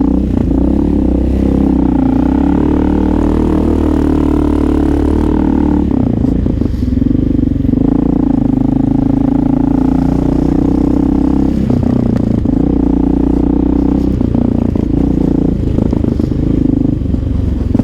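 Honda XR650L's single-cylinder four-stroke engine running through an aftermarket Lexx exhaust, a steady purring note under way. The note shifts about six seconds in and again near twelve seconds as the throttle changes.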